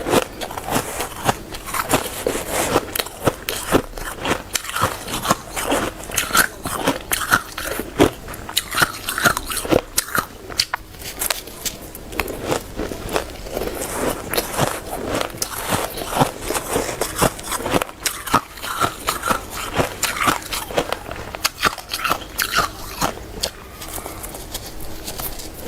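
Hard frozen ice being bitten and chewed up close: a dense, irregular run of sharp crunches, with short squeaks here and there as the frosty ice compacts between the teeth.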